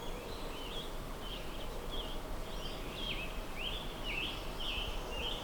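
A songbird singing a continuous run of short, varied chirps and warbles, about two phrases a second, over a steady outdoor background hiss.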